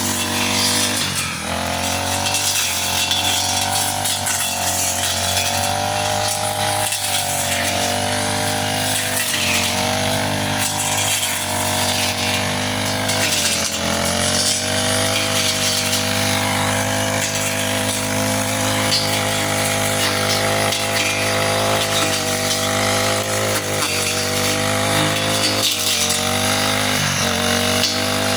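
Grass cutter's small petrol engine running at high speed, its pitch wavering up and down throughout.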